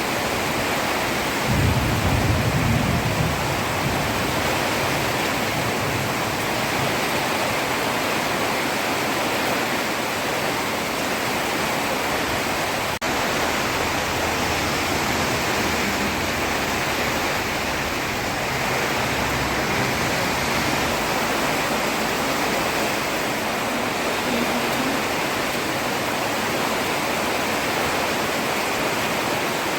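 Heavy rain falling steadily on a road, a constant dense hiss. About two seconds in a short low rumble rises under the rain and fades, and near the middle the sound drops out for an instant.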